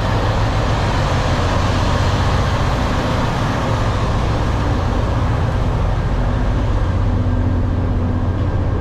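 Semi truck's diesel engine running steadily, a low even hum under a broad hiss.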